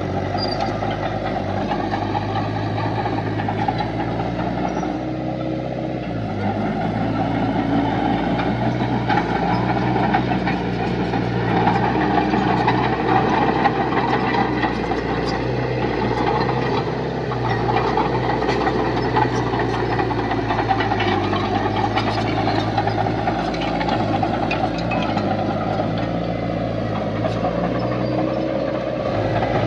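Heavy diesel construction machinery running steadily, its engine note swelling slightly in the middle.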